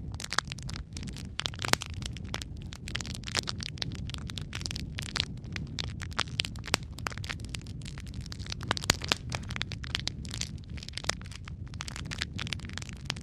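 Wood fire of burning logs crackling, with frequent sharp pops and snaps over a steady low rumble of flame.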